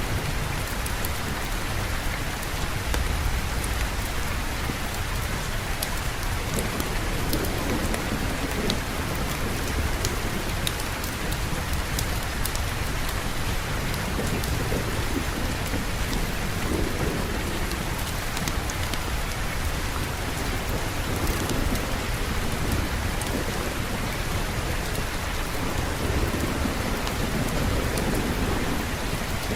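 Steady heavy rain with thunder rolling in low rumbles that swell and fade several times. Scattered sharp ticks sit on top of the rain.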